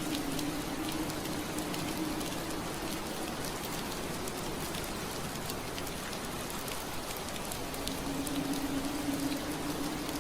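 Rain falling on a window pane: an even hiss with many small, sharp drop ticks. A low steady hum fades out a second or two in and comes back near the end.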